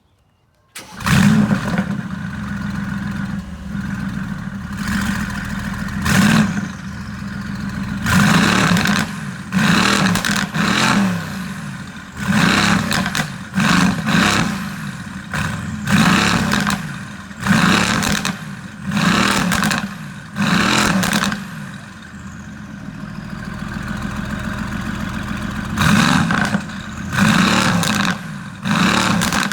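Mercedes-AMG GT S twin-turbo V8, fitted with downpipes, cold-starting about a second in with a loud flare, then idling high and blipped in short revs over and over, with a steadier idle stretch about two-thirds of the way through.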